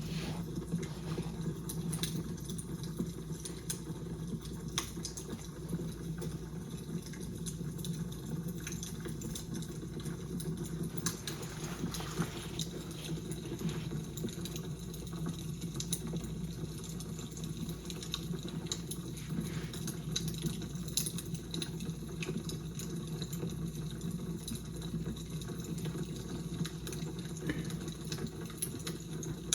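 Fire crackling: a steady low rush with scattered sharp snaps and pops at irregular intervals.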